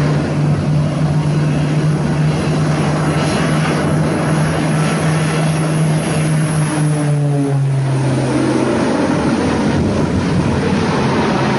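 Propeller aircraft engine droning steadily over a broad rushing noise, its pitch dropping a little about eight seconds in.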